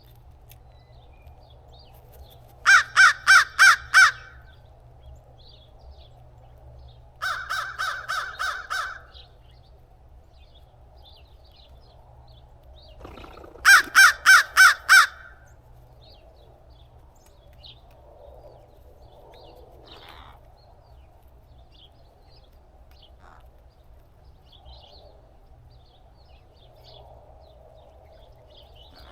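Crow cawing in three bouts: five loud caws in quick succession, then a softer, quicker run of caws, then another five loud caws.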